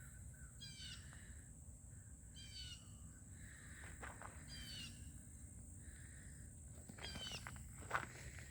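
A small songbird repeating a short, high, falling phrase four times, about two seconds apart, faint. Near the end, footsteps crunching on gravel begin.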